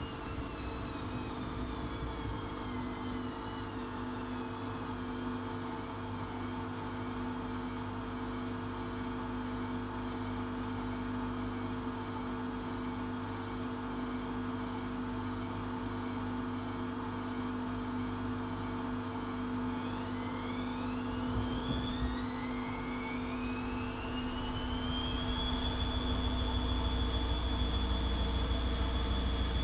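Atlant 70C1010 washing machine running. Its motor whine falls away over the first few seconds. About twenty seconds in, the whine rises steadily for several seconds and then holds a high, steady pitch as the drum speeds up, with a deeper hum growing underneath.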